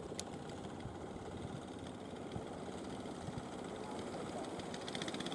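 Fishing boat engine running steadily with a fast, even chugging, growing a little louder and brighter near the end.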